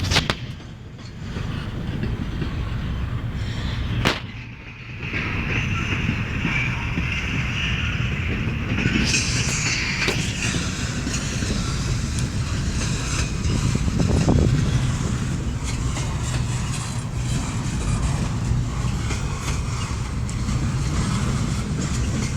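Long freight train rolling past: a steady rumble of wheels on the rails.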